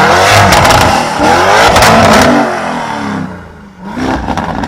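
Lamborghini Urus twin-turbo V8 through a Fi valvetronic catback with catless downpipes, revved hard twice. The note falls away after about two and a half seconds, and a short, quieter blip comes near the end.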